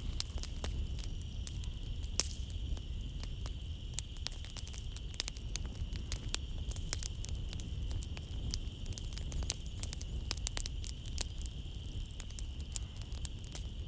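Wood fire crackling in a fireplace, with many sharp, irregular pops and snaps over a low rumble. A steady, high chirring of insects runs underneath.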